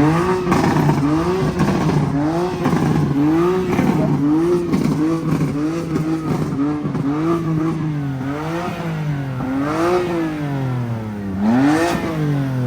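A car engine revved up and down over and over, its pitch climbing and dropping about once a second, the revs slowing toward the end and falling away at the close.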